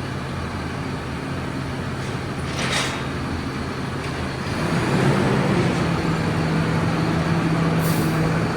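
Self-propelled crop sprayer's diesel engine running steadily, revving up about halfway through as the machine is manoeuvred. A short hiss comes about three seconds in and another near the end.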